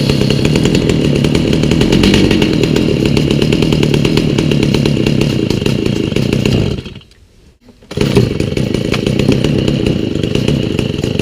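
Stihl MS290 two-stroke chainsaw engine running steadily on its new aftermarket carburetor. About two thirds of the way through the sound cuts out for roughly a second, then the engine is running again.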